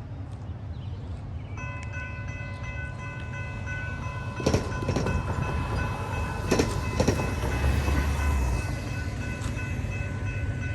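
A train rolling past with a steady low rumble and a few sharp wheel clacks in the middle. About a second and a half in, a held chord of steady tones starts and carries on to the end.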